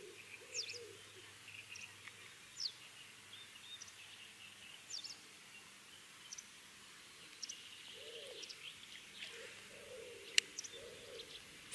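Birds chirping in short, scattered high calls, with a lower warbling call joining in for the last few seconds. A single sharp click comes near the end.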